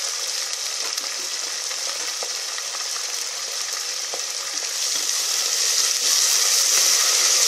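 Vegetables frying in hot oil in an aluminium pressure cooker: a steady sizzle that grows louder about five or six seconds in, as more vegetables go into the oil.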